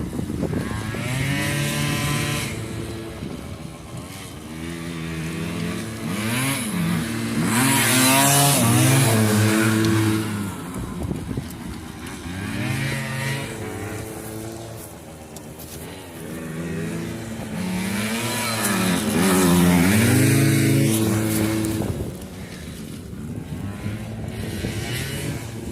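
Two small dirt bikes, a Kawasaki KE100 two-stroke and a Honda EZ90 Cub, racing around a dirt track, their engines revving up and falling off again and again through the turns. They come loudest twice, about a third of the way in and again near three quarters.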